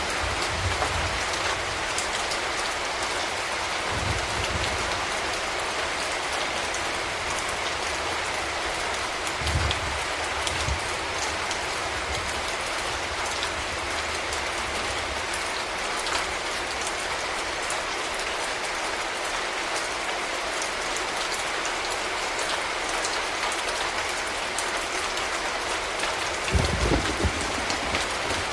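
Steady rain falling on a street, an even hiss with scattered drip ticks. A few short low rumbles come through, the loudest near the end.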